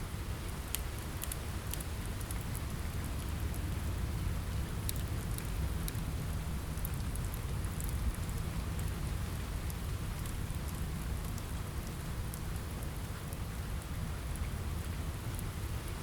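Steady rain with a low rumble, scattered with sparse, sharp crackles from a wood fire in a fireplace.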